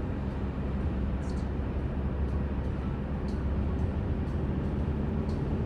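Mercedes-Benz C300 (W205) driving at a steady pace: a constant low rumble of engine and road noise, with a few faint, scattered high ticks.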